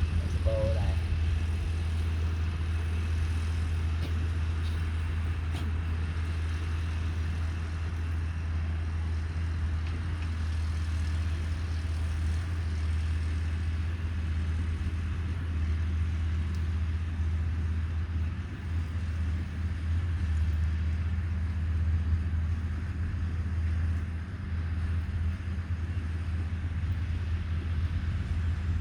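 Caterpillar 312B excavator's diesel engine running steadily with a low, even hum.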